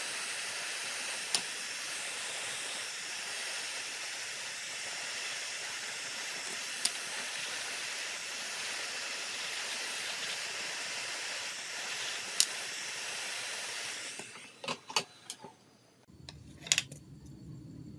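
Steady high-pitched hiss with three sharp clicks spread through it. The hiss cuts out about fourteen seconds in, with a cluster of clicks near the end.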